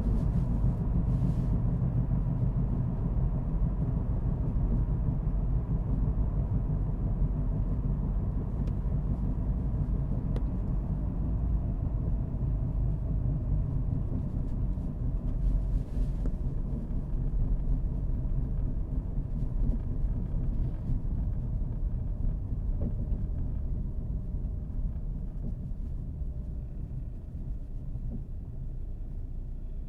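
Car being driven: a steady low rumble of engine and road noise that eases somewhat over the last few seconds.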